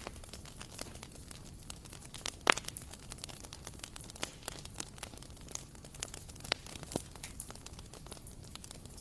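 Bonfire crackling: irregular sharp pops and snaps of burning wood over a low hiss, with one loud pop about two and a half seconds in.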